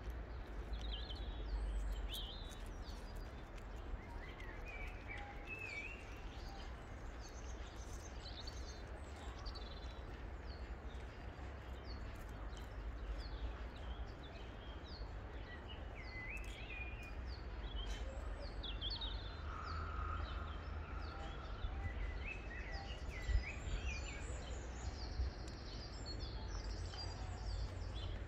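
Small songbirds chirping and calling on and off throughout, many short high notes, over a steady low rumble.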